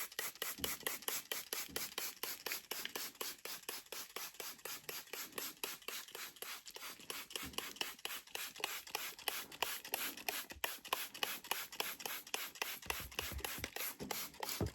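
Hand spray bottle squirting water, in a quick, even run of squirts at about four a second, misting moss in a tarantula enclosure.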